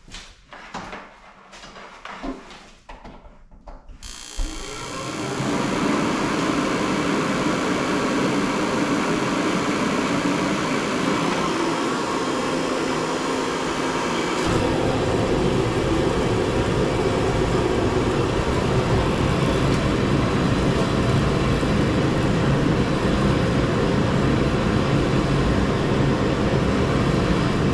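A few faint knocks, then about four seconds in a loud, steady machine roar starts and holds even, with a deeper rumble added about halfway through.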